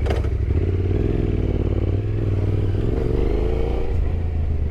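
Motorcycle engine, the Yamaha Ténéré 700's parallel twin, running under way, its revs rising and easing off as the pitch climbs about three seconds in.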